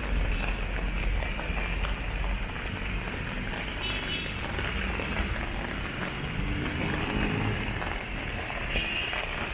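Steady rain falling, with the low rumble of road traffic under it.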